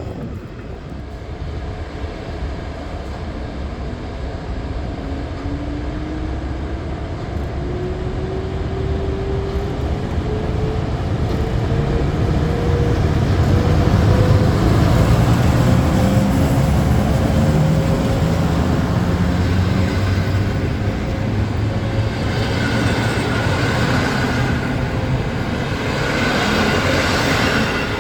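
A train gathering speed, its motors giving a whine that rises steadily in pitch and then levels off, over the low rumble of the train. The sound grows louder through the first half.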